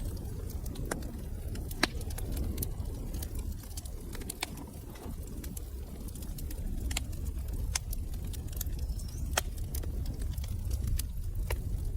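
Wood fire burning in a fireplace: a low rumble of flames with sharp crackles and pops at irregular moments, a noticeably loud pop about two seconds in.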